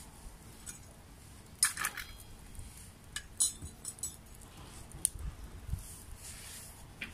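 Irregular sharp clicks and pops, a handful spread over several seconds, the biggest cluster about one and a half seconds in.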